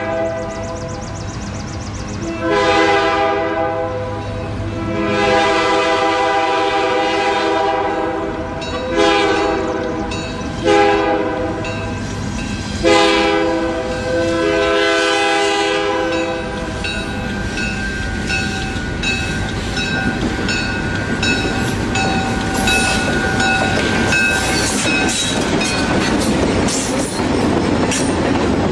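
Diesel freight locomotive's air horn sounding a chord in a series of long and short blasts as the train approaches. After that, the locomotive and its freight cars roll past, with wheels clicking at a steady rhythm over the rail joints.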